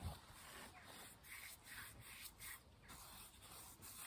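Faint rubbing strokes, about two a second: olive oil being worked by hand into a dry surface that is soaking it up.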